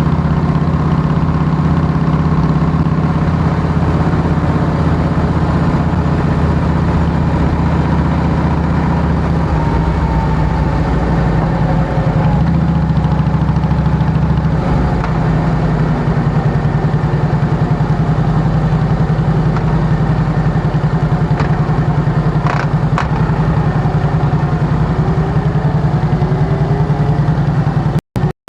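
Harley-Davidson Heritage Softail Classic's Twin Cam 96 V-twin idling steadily through true dual exhaust with fishtail tips, a loud, even pulsing. The audio cuts out briefly near the end.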